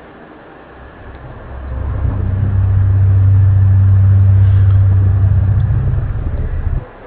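A loud, low, steady hum or drone of unknown origin: one of the 'strange sounds' reported around the world. It swells in about a second and a half in, holds steady, then cuts out suddenly near the end and comes straight back.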